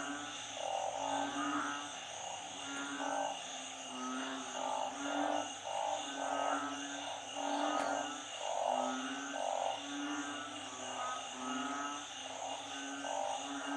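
A chorus of frogs in floodwater: narrow-mouthed frogs (อึ่ง) and small frogs (เขียด) calling over and over, with short low calls and higher croaks overlapping about once a second, over a steady high-pitched drone.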